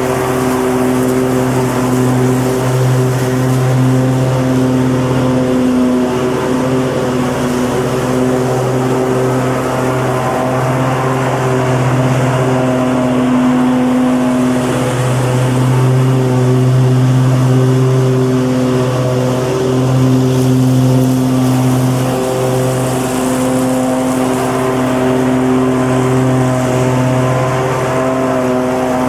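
Petrol lawn mower engine running steadily at a constant speed, with the engine's pitch holding level and the noise swelling and easing slightly.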